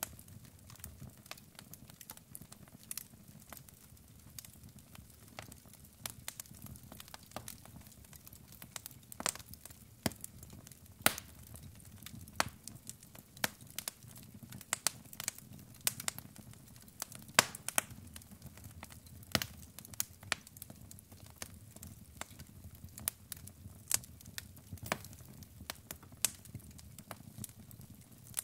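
Wood fire of burning logs crackling: irregular sharp pops and snaps, a few much louder, over a low steady rumble of the flames.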